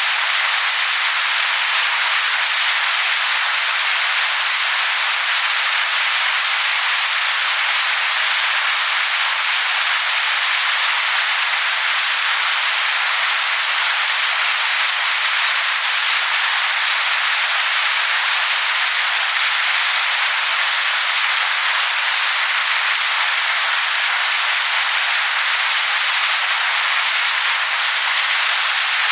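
Waterfall pouring onto rocks: a steady, unbroken rush of water with no low rumble.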